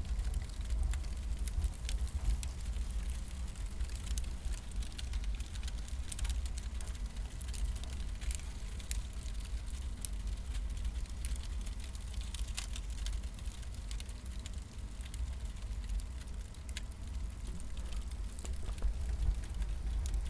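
Wood fire of split firewood crackling, with scattered sharp pops, over a steady low rumble.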